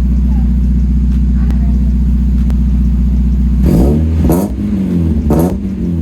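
1992 Mazda Miata's 1.6-litre four-cylinder idling through a newly fitted ISR exhaust, then blipped twice, each rev rising and falling back to idle, about four and five seconds in.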